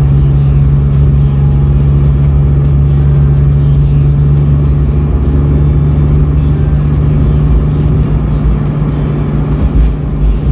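Suzuki Every kei van's engine idling through a Plusline High Style aftermarket muffler, a steady low exhaust drone.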